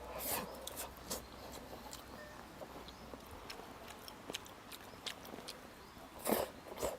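Quiet eating at the table: scattered light clicks of chopsticks on bowls, with chewing, and a couple of short rustling swishes.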